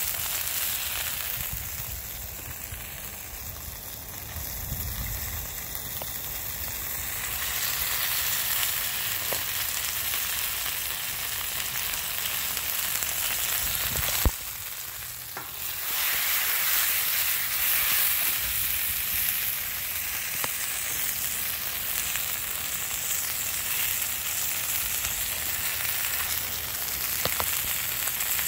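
Chicken drumsticks frying in grapeseed oil in a black steel pan over a fire: a steady sizzling hiss with a few faint pops. There is one sharp click about halfway through, followed by a brief lull in the sizzle.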